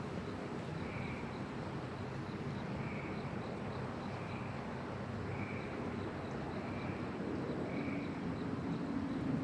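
Honeybees humming steadily around an open hive. A short high call repeats about once a second, and the hum grows a little fuller near the end.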